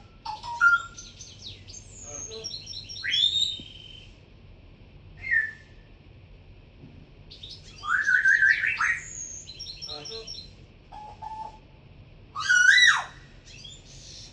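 Cockatiel chirping and whistling: runs of quick high chirps broken several times by louder whistled calls that glide upward.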